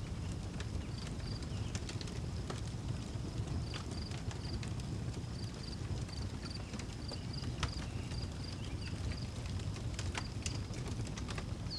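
Wood fire burning with a low steady rumble and scattered sharp crackles and pops, while a cricket chirps in short, evenly repeated high pulses.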